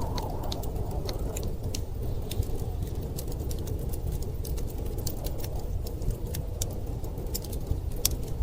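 Wood fire crackling with irregular sharp pops, one louder pop near the end, over a steady low rumble of storm wind.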